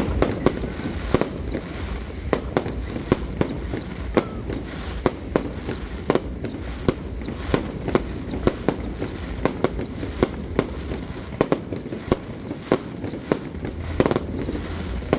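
Fireworks display going off: a dense, irregular run of sharp bangs and crackles, several a second, over a steady low rumble.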